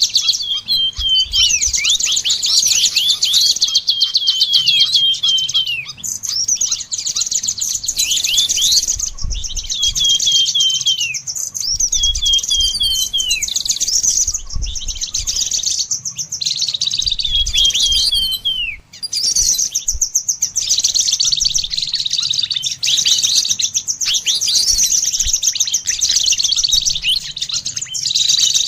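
Songbirds chirping and trilling in a fast, nearly unbroken high-pitched stream, with runs of short falling notes repeated in quick succession and only brief pauses.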